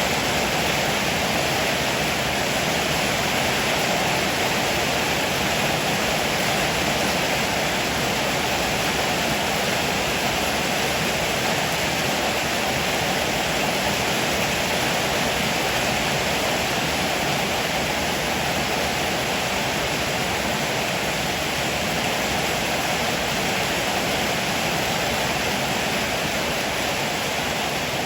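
Heavy rain falling steadily on a roof, an even hiss with no thunder claps or other separate sounds.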